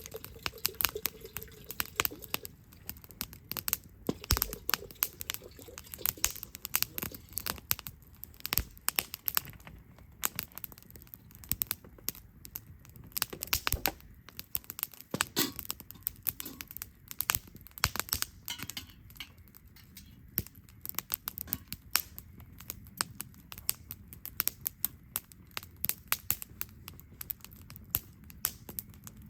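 Wood campfire crackling, with irregular sharp snaps and pops coming several times a second.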